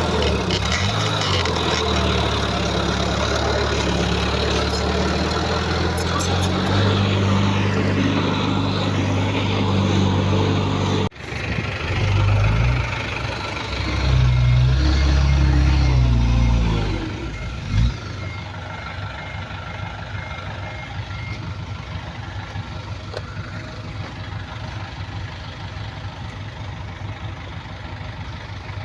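Heavy earthmoving machine's diesel engine running under load. The sound breaks off abruptly a little over a third of the way in, then an engine revs up for several seconds, falls away with a thump, and settles to quieter steady running.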